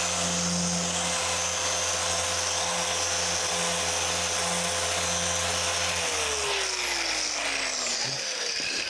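Car polisher running steadily, then switched off about six seconds in, its motor winding down in falling pitch.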